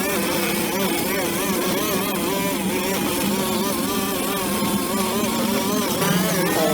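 Small two-stroke engine of a brush cutter running steadily while cutting grass, its pitch wavering up and down as the load changes.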